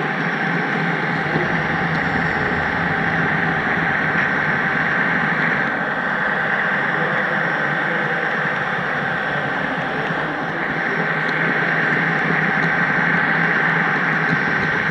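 HO scale model train running steadily on the track, heard from a camera riding on its caboose: a continuous rolling rumble with a thin steady high whine.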